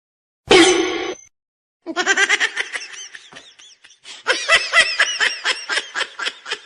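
A person laughing hard: one loud burst, then after a brief pause a long run of rapid, high-pitched laughing pulses, several a second.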